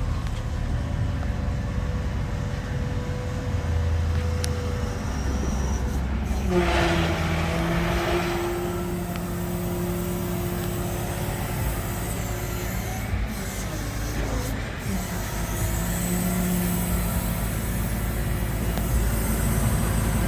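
Vehicle engine running steadily with a low rumble and a steady hum, and a short burst of hiss about six and a half seconds in, after which the engine's hum changes pitch.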